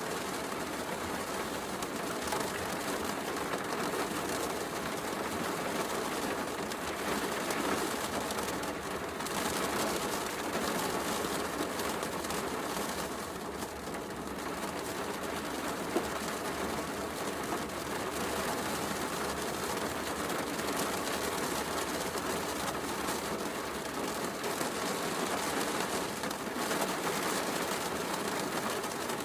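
Heavy rain falling steadily, with a wood fire crackling softly in a fireplace; one sharper pop from the fire about halfway through.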